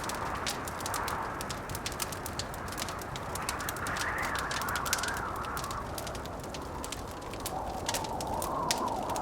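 Wood fire crackling with frequent small pops, over blizzard wind that moans and swells, rising in pitch near the middle and lower again near the end.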